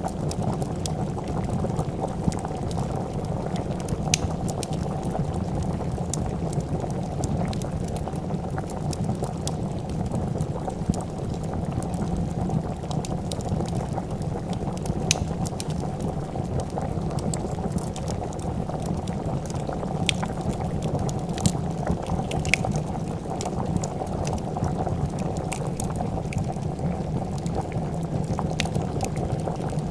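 A pot of soup boiling steadily, a continuous dense bubbling, with sparse sharp crackles and pops from a wood fire scattered over it.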